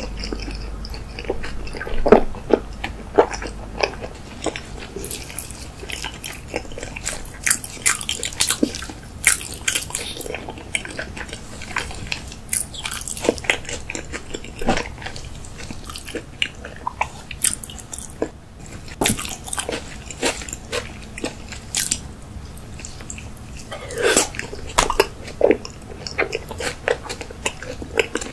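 Close-miked mouth sounds of someone chewing raw salmon sushi: many short, sharp, irregular clicks and smacks. There are louder clusters about two seconds in and near the end.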